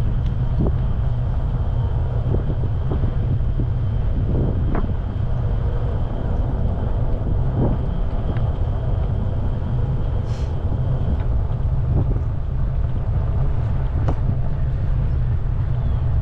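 Wind buffeting the microphone of a moving e-bike, a loud, steady low rumble.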